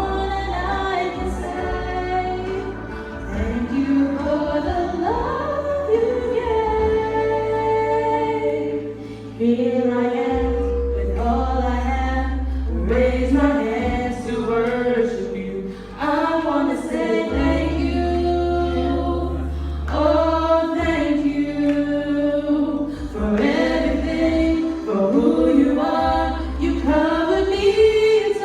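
Two voices singing a slow worship-song duet over long, sustained low bass notes that change every few seconds.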